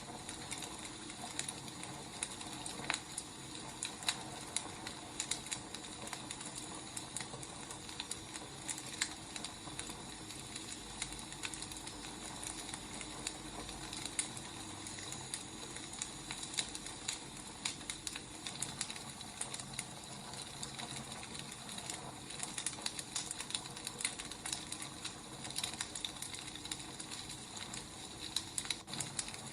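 Burning firewood crackling, with irregular sharp pops and snaps over a steady soft hiss.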